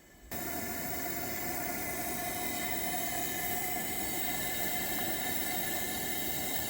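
Camp stove gas burner running with a steady hiss and a few steady whining tones over it. It cuts in suddenly just after the start and cuts off abruptly at the end.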